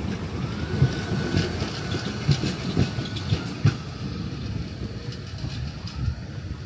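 A city public-transport vehicle in motion: a steady low rumble with irregular knocks and rattles, and a faint high whine about a second in.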